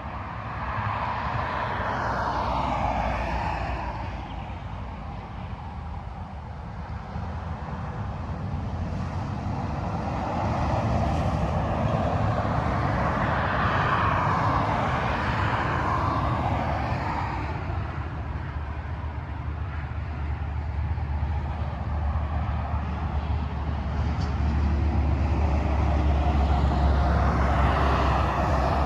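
Freeway traffic passing at speed: three vehicles go by in turn, each a swell of tyre noise that rises and fades. A deep, steady engine drone underlies the last pass near the end.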